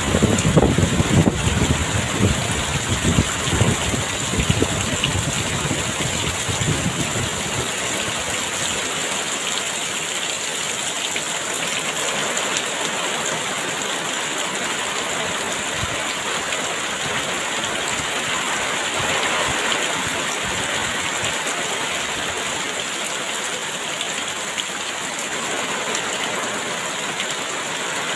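Heavy rain pouring steadily, with a gust of wind in the first several seconds adding a louder, deeper rush that then dies down.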